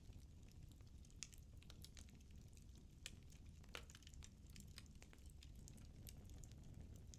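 Firewood burning in a fireplace, crackling faintly with scattered irregular pops over a low steady rumble.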